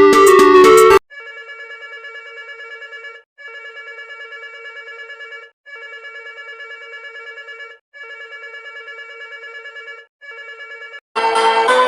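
Electronic emergency alert tone: a trilling, telephone-like ring sounded in four bursts of about two seconds and a short fifth, with brief gaps between. Louder keyboard music cuts off about a second in, and other music starts near the end.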